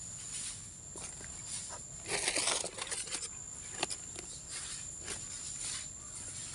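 A burst of rustling in dry leaves and undergrowth about two seconds in, with a few soft knocks, over a steady high-pitched insect drone.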